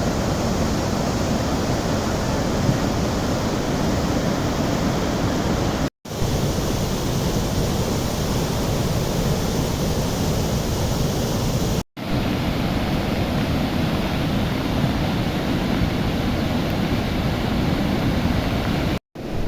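Steady rush of a swollen river in flood, cut off for an instant three times, about 6, 12 and 19 seconds in.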